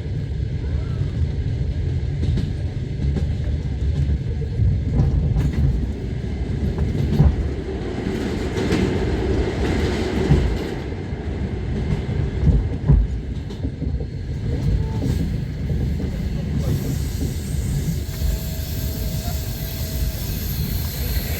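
Passenger train running along the track, heard from inside the carriage: a steady low rumble with the wheels knocking over rail joints now and then.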